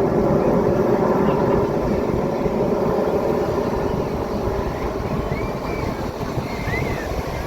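Display aircraft flying over with a steady engine drone that slowly fades.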